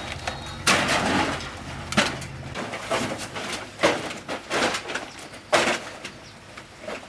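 Repeated clattering and rustling of scrap being handled, about one knock or rustle a second, with a longer rustle about a second in.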